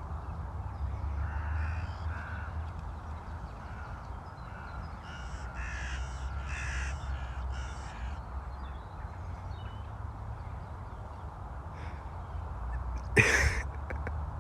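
Crows cawing, a run of about five caws in quick succession in the middle, over a steady low rumble. A single loud, short sound breaks in near the end.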